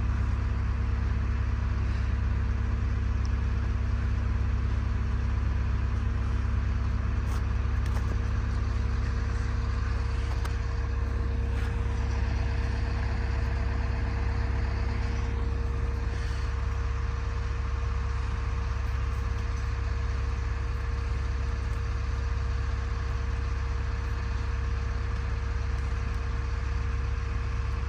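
Vehicle engine idling steadily: a constant low hum with a couple of steady tones above it, and a few faint ticks in the middle.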